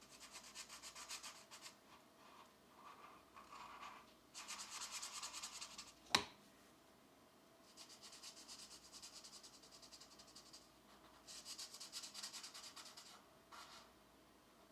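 Pencil shading on coloring-book paper: several spells of quick back-and-forth strokes with short pauses between them. A single sharp click about six seconds in.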